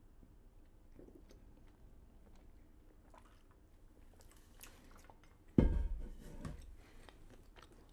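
Close-miked chewing of fried chicken and waffles, soft at first, then a sudden loud crunch about five and a half seconds in that fades over a second.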